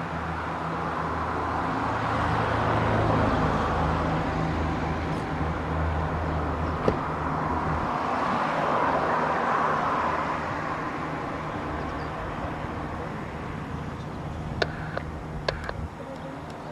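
Light aircraft piston engines running: a steady low engine hum under a broad rush that swells and fades twice. A few sharp clicks near the end.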